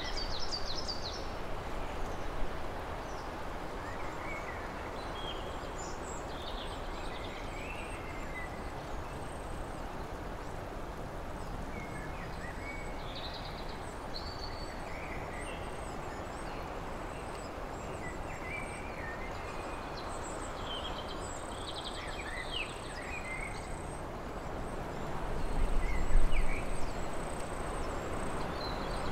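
Small birds chirping and calling now and then over a steady rushing background noise, with a low rumble swelling up near the end.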